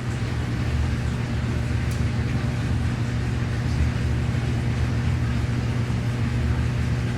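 Washing machine running: a steady, loud, low motor hum with a noisy wash over it.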